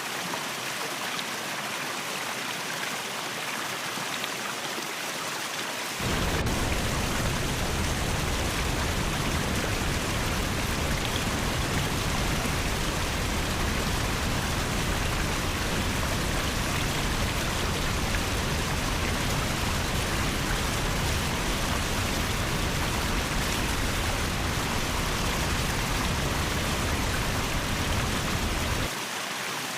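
Waterfall water rushing steadily. About six seconds in it jumps suddenly louder and deeper, with a heavy low rumble, and drops back to the lighter rush near the end.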